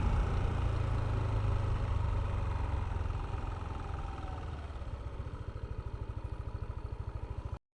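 Yamaha Aerox V3 scooter's single-cylinder engine slowing from riding speed and settling into an idle, its even firing pulses clearly heard. The sound cuts off abruptly near the end.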